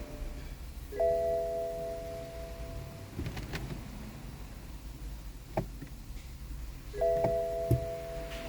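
An electronic chime sounds twice, about six seconds apart. Each time it is a chord of several steady tones that rings on and fades over about two seconds. A few sharp clicks come in between.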